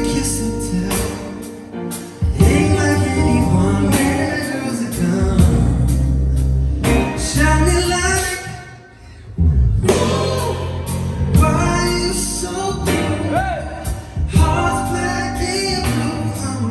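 A pop song performed live: a sung lead vocal over a bass line and a steady drum beat. The music thins out briefly about nine seconds in, then comes back in full.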